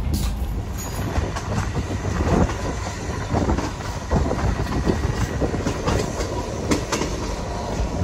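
A train running along the rails, heard from a passenger carriage: a steady low rumble with irregular clicking and clattering of the wheels on the track.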